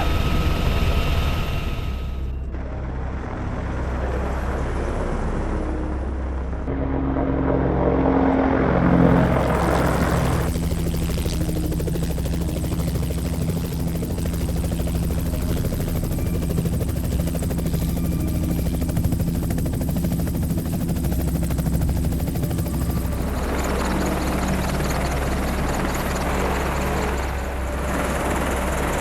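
Helicopter running: steady, deep rotor and engine noise. Its tone changes abruptly several times.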